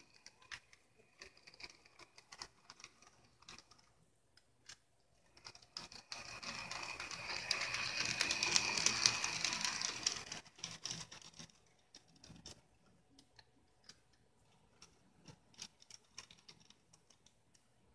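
Small model locomotive running on track: scattered light clicks of wheels over rail joints, with a louder whirring of the motor and gears that swells and fades between about six and ten seconds in as it passes close.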